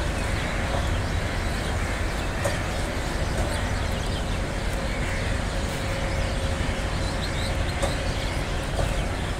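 Bangladesh Railway intercity passenger coaches rolling past on the rails: a steady rumble of wheels and bogies, with a few sharp clicks.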